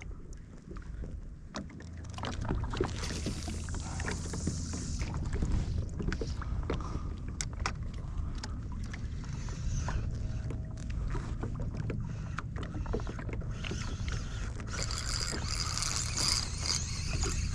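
Noise aboard a fishing kayak: a steady low rumble of water and wind with scattered sharp clicks and knocks of handling on the boat, and a louder hiss joining about fifteen seconds in.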